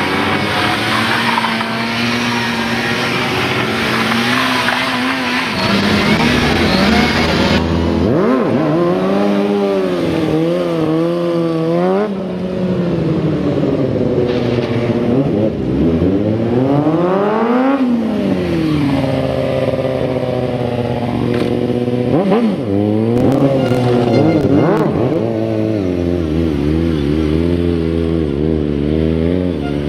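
Stunt motorcycle engine revving hard, its pitch rising and falling with quick throttle blips and one long climb to high revs about two-thirds of the way through before dropping back. A steady hiss runs alongside the engine for the first quarter and stops suddenly.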